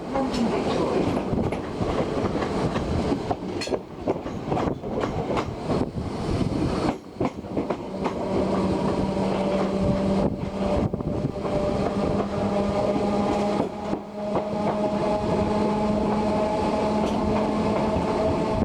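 Class 455 electric multiple unit running along the track, heard on board: a steady rumble with scattered clicks of the wheels over rail joints, and a steady whine that sets in about eight seconds in.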